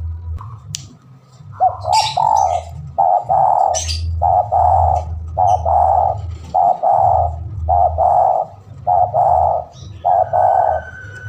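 Spotted dove singing: after a short pause, a steady run of low coos, about one a second, the persistent song that calls rival birds. A few faint high chirps from other birds and a low hum sit underneath.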